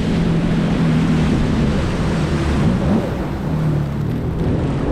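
Jet ski engine running steadily under way, with wind and water noise; the engine note wavers about three seconds in.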